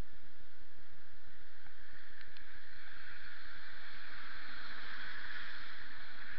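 Steady hiss of a rainy, wet street heard through an action camera's microphone, swelling about five seconds in, over a constant low rumble. Two faint ticks sound a little after two seconds.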